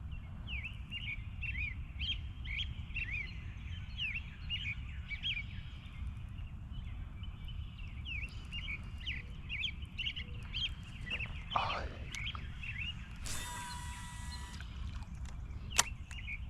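Small birds chirping over and over, short quick notes throughout, over a steady low rumble. About two-thirds of the way through comes a harsh rasping noise lasting a second and a half, and a single sharp click near the end.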